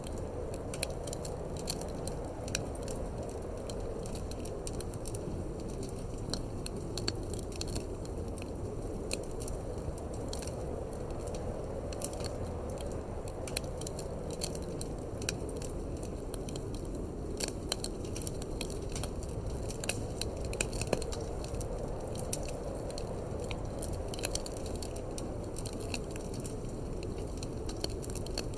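Wood fire in a fireplace crackling and popping in irregular sharp clicks, over a steady low rush of wind.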